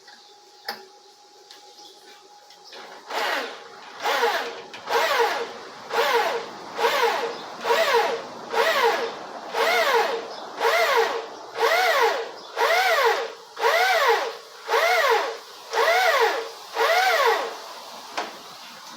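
Electric drill run in short trigger pulses, about one a second, each one spinning up and winding back down; this begins a few seconds in and stops near the end.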